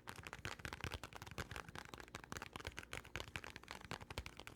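Close-miked ASMR trigger sounds: a dense, irregular run of soft clicks and taps, many each second.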